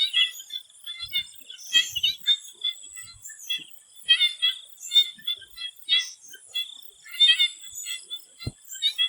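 Swamp frogs calling in a chorus of short, pulsed croaks, a few each second and overlapping, over a steady high-pitched tone. A single low thump comes about eight and a half seconds in.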